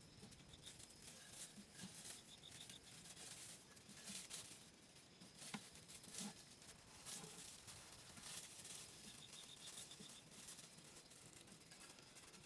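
Near silence with faint, scattered light clicks and rustles.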